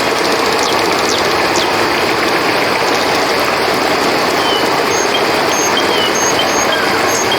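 River water rushing steadily, with short high chirps scattered over it, coming more often in the second half.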